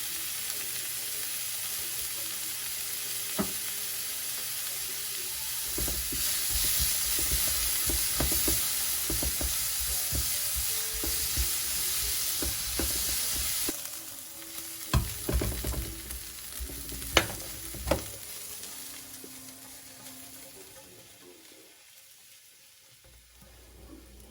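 Food sizzling in a frying pan while being stirred, with scattered knocks of the utensil against the pan. The sizzle is loudest in the middle and drops away suddenly about 14 s in; a few sharp clacks follow before it fades to quiet.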